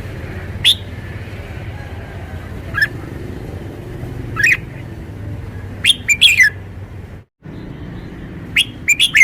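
Red-whiskered bulbul giving short, sharp whistled song phrases: single notes about a second or two apart, then quick clusters of three or four notes. A steady low rumble runs underneath, broken by a brief dropout to silence just after the middle.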